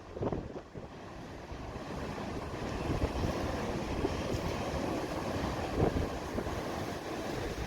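Strong wind buffeting the microphone: a steady rushing noise with a gusty low rumble.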